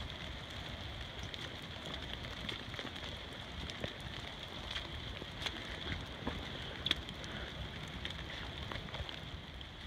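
Steady rain falling through the forest, with scattered sharp ticks of single drops landing close by.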